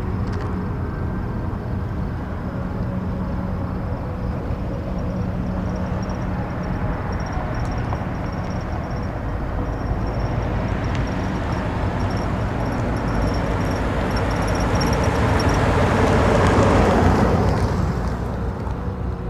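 Ambient wind-like soundscape: an even rushing noise over a few low held tones. It swells gradually to its loudest near the end, then eases off.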